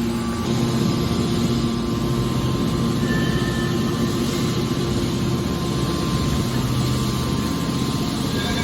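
Hydraulic car baler running steadily: a constant machine drone with a low hum and a faint high tone.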